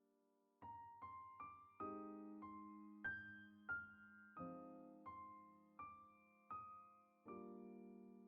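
Quiet background piano music: a slow melody of single notes and chords, each struck and left to fade, starting about half a second in.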